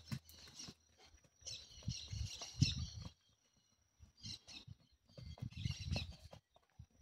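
Small birds chirping in several short bursts over a faint, steady high tone, with soft low thuds in between.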